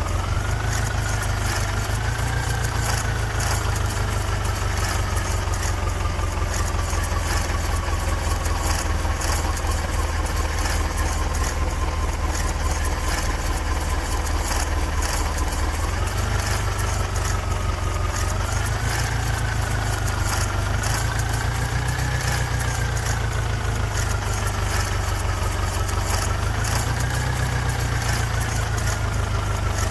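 Heavy diesel engine running under load. Its pitch rises briefly about a second and about two seconds in, then eases slowly down for over ten seconds. It rises again in steps from about the middle onward.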